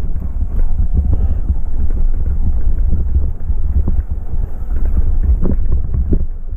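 Wind buffeting the microphone of a camera on a retro mountain bike riding downhill, with irregular knocks and rattles from the bike bouncing over the dirt trail.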